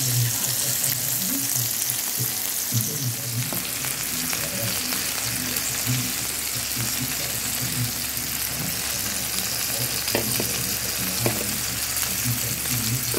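Minced-beef patties, mushrooms, onion and garlic sizzling on an oiled raclette grill plate: a steady frying hiss, with a couple of light clicks near the end.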